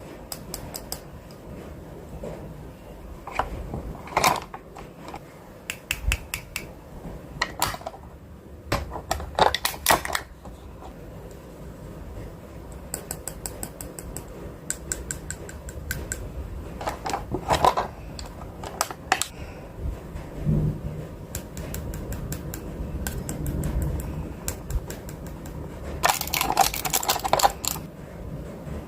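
Scattered clicks, taps and clatter of food containers and packages being handled and set down while a fridge is stocked. There are louder clattering spells around ten seconds in, around seventeen seconds in and near the end.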